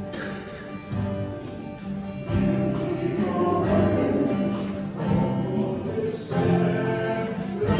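Congregational hymn with acoustic guitar accompaniment. A congregation's singing comes in and the music grows louder about two seconds in.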